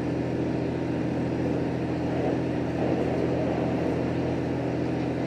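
Inside a JR Hokkaido H100 diesel-electric railcar running along the line: a steady low engine drone with wheel-on-rail rolling noise.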